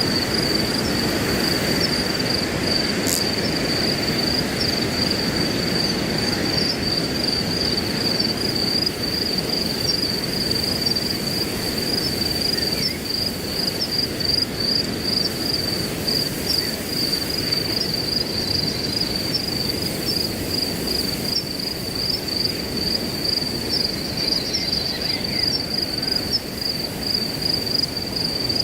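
Crickets chirping in a steady, fast, high-pitched pulse over the even rush of wind through grass.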